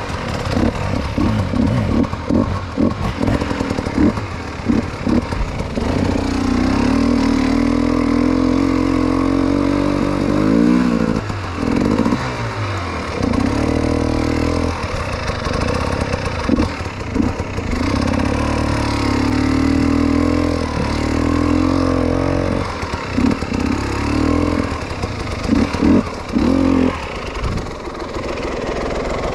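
Motorcycle engine under way, its throttle blipped on and off in quick succession during the first few seconds and again near the end, with the revs rising and dropping away about ten seconds in.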